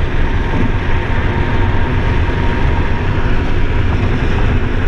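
Steady road and tyre noise with a low rumble inside the cabin of a moving 2008 Ford Focus SE.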